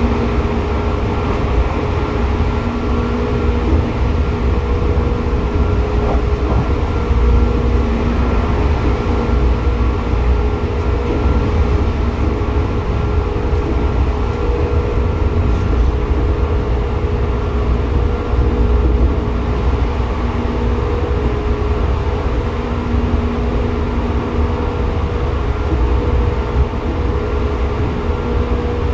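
Seibu 2000 series electric train running at speed, heard inside the passenger car above the under-floor line breaker: a steady low rumble of wheels and running gear with a few steady humming tones.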